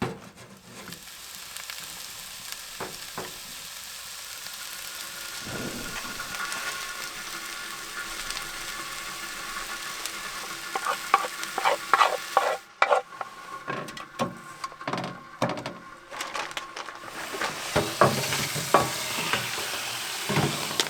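Food frying in a hot pan, a steady sizzle. From about halfway on, a cooking utensil repeatedly clicks and scrapes against the pan as the food is stirred, and the sizzle drops out briefly once.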